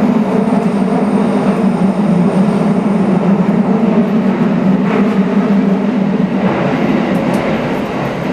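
Tokyo Metro Tozai Line commuter train running between stations: a steady rumble of wheels on rail with a low drone, and a couple of faint clicks in the second half.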